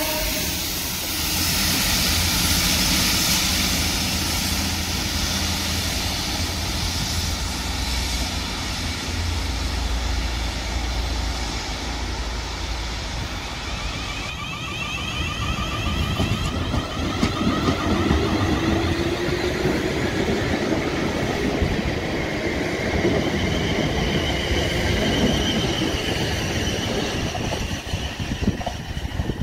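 A Network Rail Sandite multi-purpose vehicle's diesel engine running with a steady low hum as it rolls past. From about halfway, a South Western Railway Desiro electric multiple unit comes through, with wheel noise on the rails and a traction-motor whine that rises in pitch.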